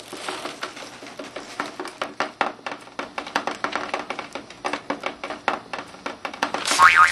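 A quick, irregular run of light clicks and taps, several a second, over a faint steady tone.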